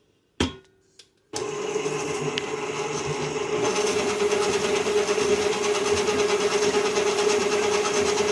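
Electric mixer switched on about a second in and running steadily, beating eggs and sugar, after a sharp knock just before it starts.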